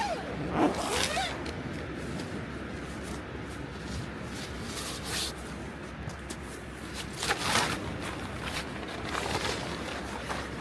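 Several short rasping strokes of camping gear being handled, over a steady wash of sea surf.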